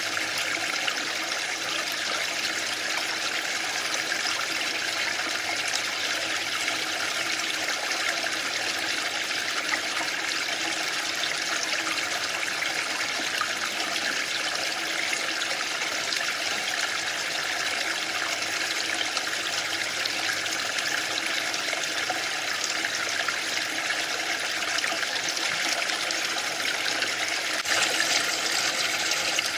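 Waterfall: water pouring and splashing in a dense, steady rush, slightly louder and brighter near the end.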